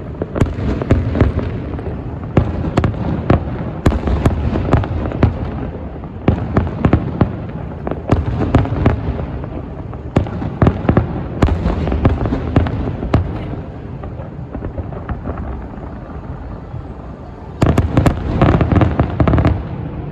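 Aerial fireworks bursting in quick succession: many sharp bangs over a continuous low rumble. Near the end comes a dense flurry of rapid crackling reports.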